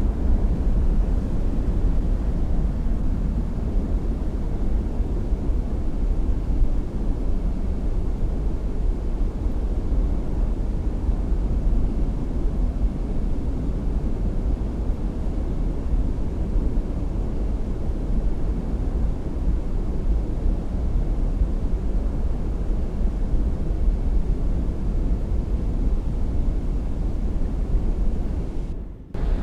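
Boat outboard motors running in a steady low rumble, mixed with wind on the microphone.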